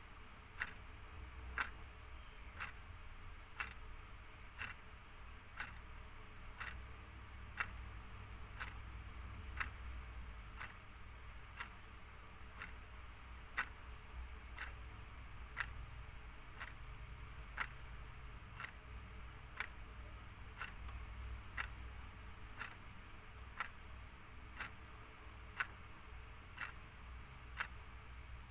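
Clock ticking steadily at about two ticks a second, over a faint low hum.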